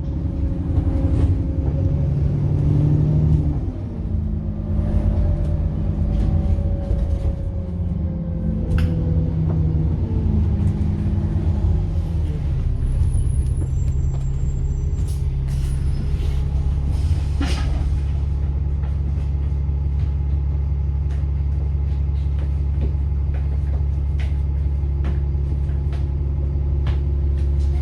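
Bus engine heard from on board. For the first twelve seconds or so it changes speed, and a turbo whine falls away as it slows. It then settles to a steady idle for the rest, with occasional clicks and rattles.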